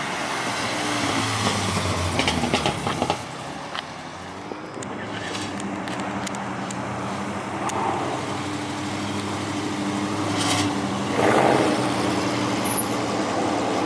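Car engines running, with a few sharp clicks in the first few seconds; about five seconds in, one engine settles into a steady idle that swells briefly louder near the end.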